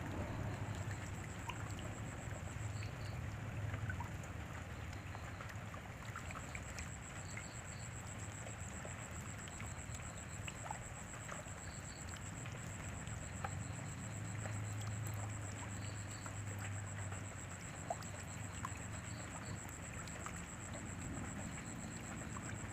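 Rain falling steadily, with scattered drops ticking and a low rumble underneath. A high, steady pulsing trill runs in the background, dropping out for a few seconds about three seconds in.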